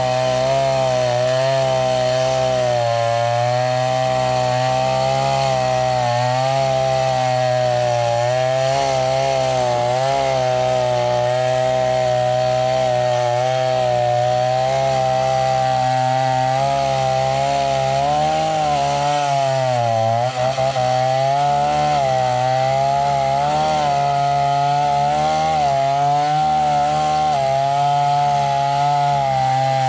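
Two-stroke chainsaw running at high revs while cutting wood, its pitch wavering as the chain loads and unloads, with a brief drop in speed about twenty seconds in.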